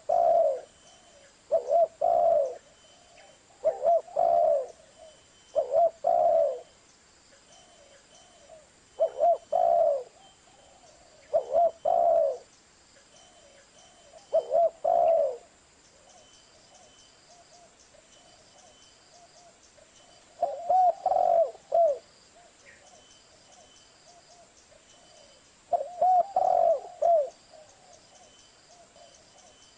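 Zebra dove (perkutut) cooing: short phrases of quick staccato coos, repeated every two to three seconds, with a longer pause about two-thirds of the way through.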